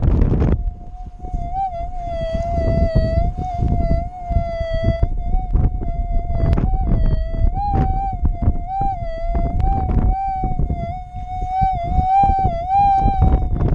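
Minelab GPZ 7000 metal detector's threshold tone, a steady hum that wavers slightly in pitch as the coil is swept. Strong wind buffets the microphone underneath.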